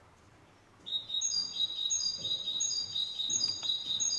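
High-pitched chirping of small birds, a run of quickly repeated notes starting about a second in.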